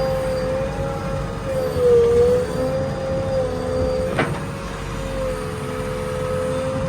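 Heavy diesel machinery running, with a steady, slightly wavering high whine over the engine rumble. A sharp click comes about four seconds in.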